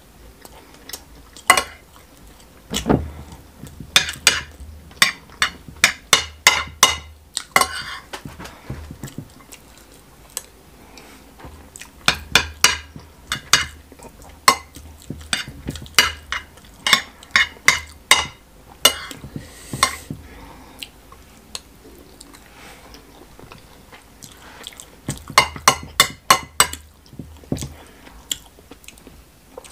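Close-up chewing with wet mouth clicks and smacks in several bursts of quick clicks, along with a metal spoon tapping and scraping on a ceramic plate.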